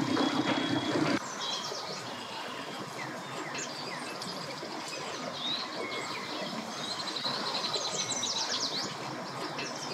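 Small birds chirping and singing, with a few rapid trills near the end. A loud steady hum in the first second cuts off suddenly.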